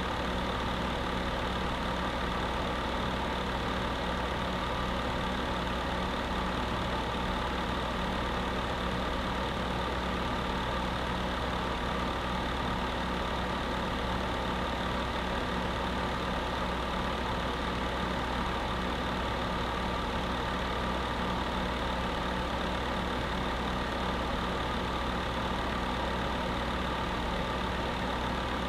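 Space heater running steadily: an even fan whir over a constant low motor hum, with no change in level.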